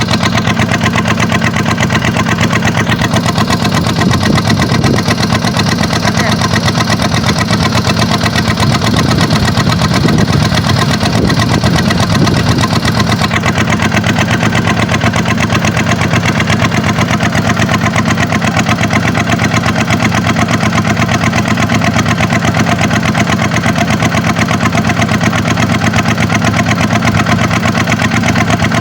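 Kubota tractor's diesel engine running steadily, with a slightly louder, busier stretch from about four to thirteen seconds in.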